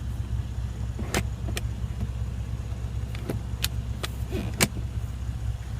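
Half a dozen sharp plastic clicks and light knocks from the rear door panel's ashtray being opened and shut, over the steady low hum of the idling engine heard inside the cabin.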